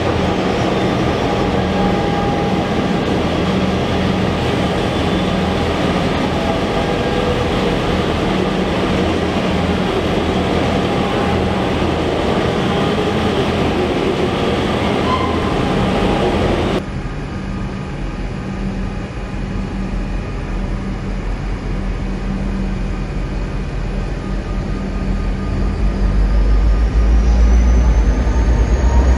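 Diesel freight train running through a covered station, a steady rumble of locomotives and wagons with a low engine hum. After a sudden cut, a G-class diesel freight locomotive approaches, its engine rumble growing louder over the last few seconds as a high whine rises in pitch.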